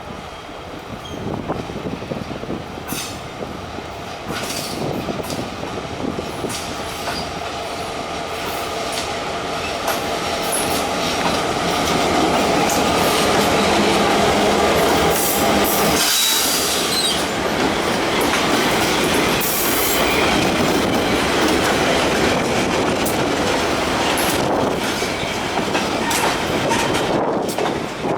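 Freight train cars rolling past, steel wheels clicking over rail joints with brief wheel squeal, growing louder about halfway through.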